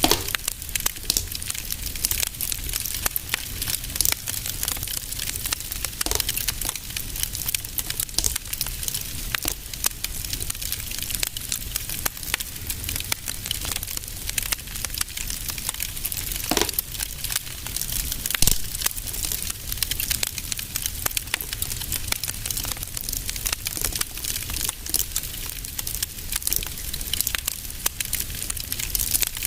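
Wood fire in a fireplace crackling steadily, a dense run of small snaps and pops over a low rumble, with a louder pop about eighteen seconds in.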